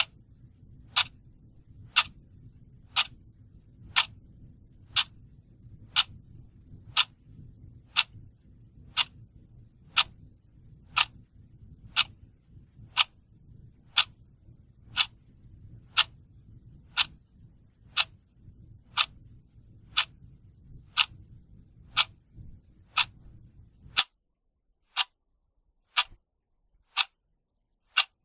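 Clock ticking steadily, one sharp tick a second, over a faint low hum that cuts out suddenly near the end.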